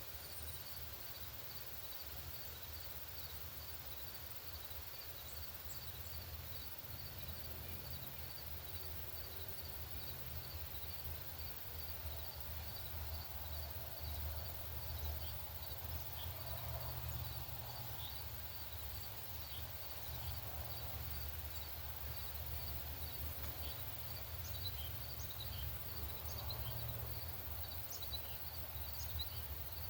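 Faint outdoor ambience with a steady low rumble, a faint high chirp repeating about once a second, and, from about halfway on, scattered short high chip notes of small birds.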